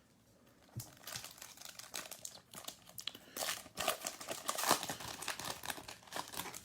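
A foil trading-card pack wrapper crinkling and crumpling as it is handled, starting about a second in.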